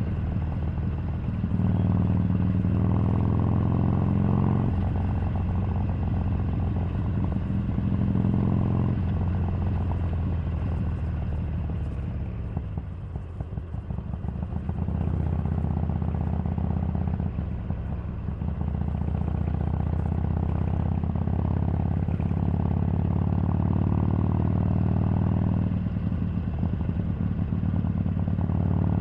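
Harley-Davidson Sportster 883's air-cooled V-twin engine running while riding. Its beat dips in loudness a little before halfway through, as the throttle eases off, then pulls steadily again.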